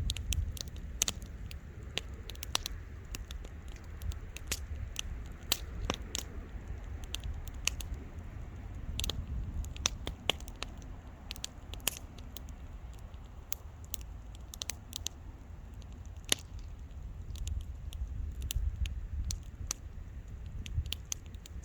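Wood bonfire crackling: irregular sharp pops and snaps, several a second, over a low steady rumble.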